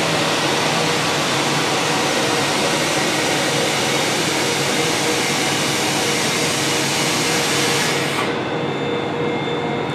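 Train noise: a steady rushing noise with a low hum running under it. About eight seconds in, the hissing top falls away, leaving a duller rumble.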